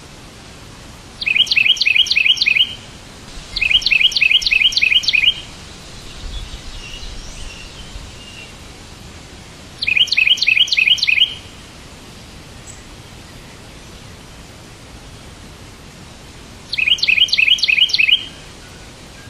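A songbird singing four short phrases, each a rapid, even run of about seven repeated chirps lasting about a second and a half, with faint twittering between the second and third phrase, over a steady background hiss.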